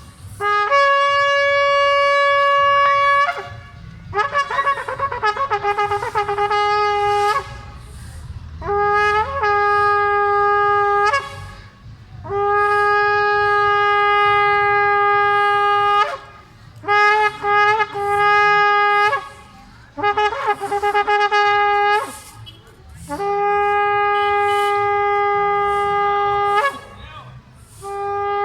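Long, loud horn blasts with a trumpet-like tone, mostly held on one steady pitch for several seconds each and separated by short pauses. A couple of passages waver unevenly instead of holding steady.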